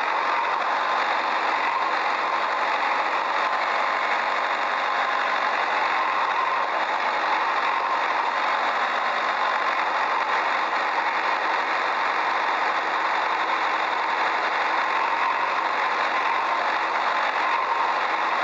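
A steady engine-like running sound, even in pitch and level throughout, thin with no deep rumble.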